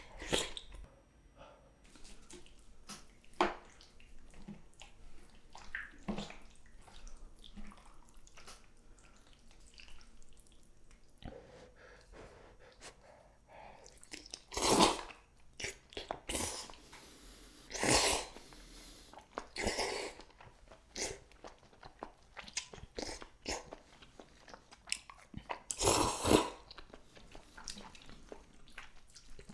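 Close-miked eating of spicy cheese jjimdak: soft chewing and biting with small wet clicks, broken by several louder noisy bursts about halfway through and again near the end.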